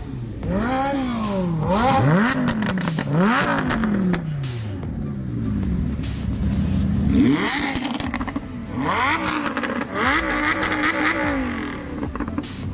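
Car engine being free-revved: three quick blips in the first few seconds, each rising and falling back, then two more revs and one held briefly at high revs before it drops back near the end.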